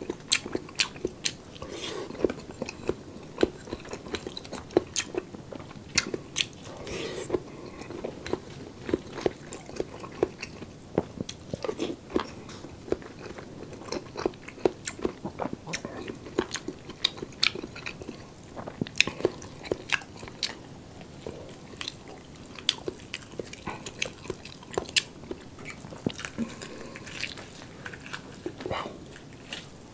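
Close-miked eating sounds: a person chewing and biting food, with many short wet mouth clicks throughout. Near the end, a whole roast chicken is torn apart by hand.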